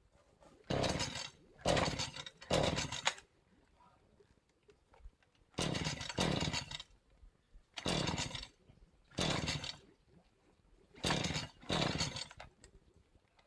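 Hand saw cutting in short back-and-forth strokes, about half a second each, in runs of two or three with pauses between.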